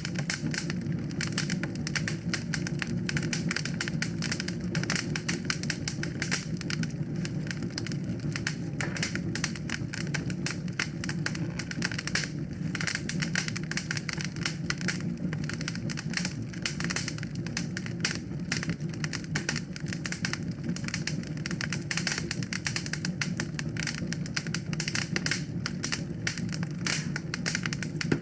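Wood fire in a fireplace crackling, dense irregular pops and snaps over a steady low rumble of the flames.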